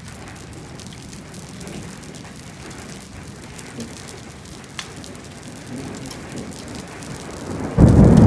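Steady rain with pea-size hail falling, a couple of sharp ticks of hailstones partway through. Near the end a sudden loud, deep crack of nearby thunder breaks in and starts to rumble.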